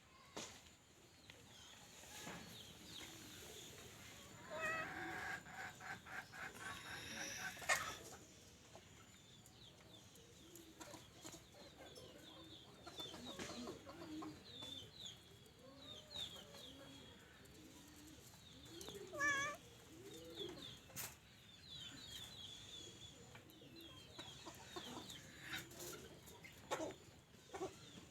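Chickens clucking, with many short high chirps and a few sharp clicks or knocks scattered through.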